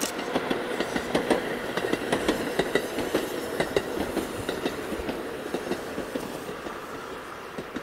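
Tobu 6050-series electric train running past, its wheels clacking rapidly over the rail joints, the sound fading away near the end as the train moves off.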